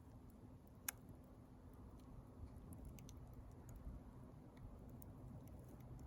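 Wood fire burning quietly with faint, scattered crackles and one sharp pop about a second in.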